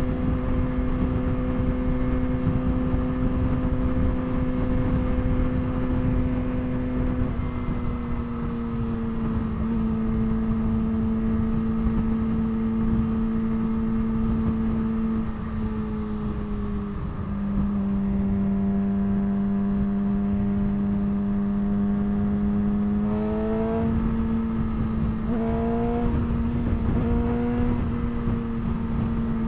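Exhaust of a straight-piped 2007 Suzuki GSX-R600 inline-four motorcycle engine, running steadily at highway speed. Its pitch drops in a few steps as the revs come down, then near the end it rises briefly several times.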